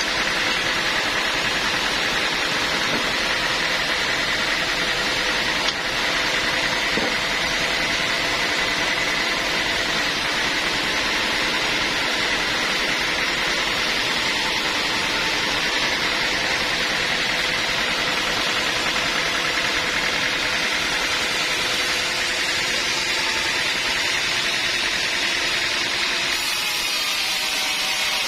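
Sawmill machinery running steadily, a constant mechanical noise with a steady high whine; its tone shifts slightly near the end.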